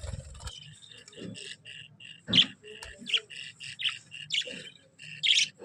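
Budgerigars chirping and chattering: a rapid run of short chirps broken by several louder, squawky calls.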